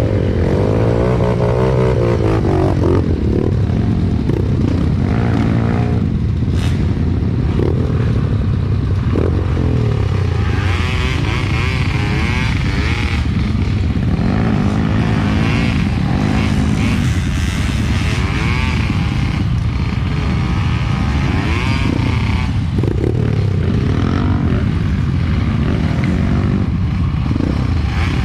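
Trail motorcycle engine running under load as it is ridden. Its pitch rises and falls continually as the throttle is opened and closed.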